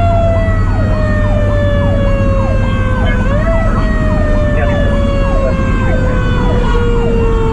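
Federal Q mechanical siren winding down in a long, slowly falling wail, briefly spun back up about three seconds in before falling again. An electronic siren yelps in rapid repeated sweeps alongside it, over the fire truck's low engine rumble.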